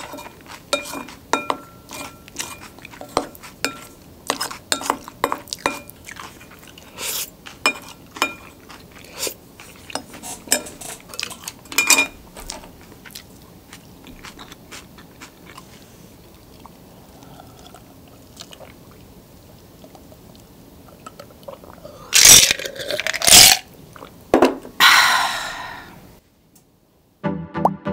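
Close-miked eating sounds: a wooden spoon clicking and scraping against a ceramic bowl and chewing of rice mixed into leftover noodle sauce, thick with clicks in the first dozen seconds and quieter after. Near the end come three loud mouth and breath sounds, then a moment of silence and music starting just before the end.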